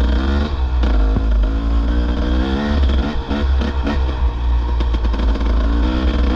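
Dirt bike engine ridden along a trail, its pitch rising and falling again and again with the throttle, over a steady low rumble.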